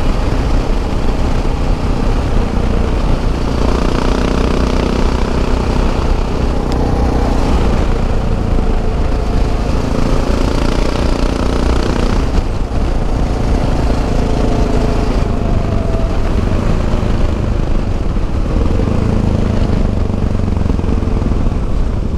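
Single-cylinder engine of a Yamaha XT 660 Z Ténéré motorcycle running steadily while riding, its pitch rising and falling a little, over a steady rush of wind and road noise.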